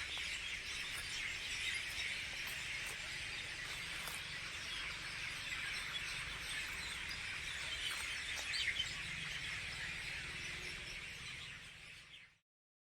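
A huge flock of birds calling all at once: a dense, continuous din of overlapping chirps and chatter that cuts off suddenly near the end.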